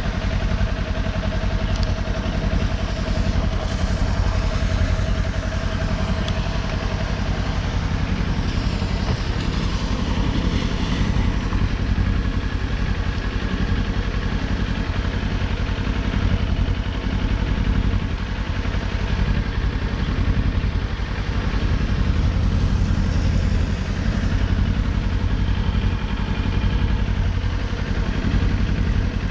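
Kawasaki Ninja 400's parallel-twin engine running while the motorcycle is ridden at a steady pace, under a constant rush of wind and road noise.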